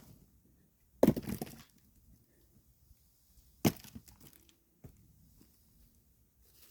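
Axe splitting firewood: two sharp strikes about two and a half seconds apart, the first, about a second in, followed by a short splintering crack as the wood gives.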